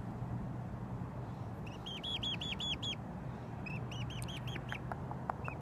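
A pet bird calling in quick runs of short, high, repeated notes, about five a second, three bursts in all, over a low steady hum.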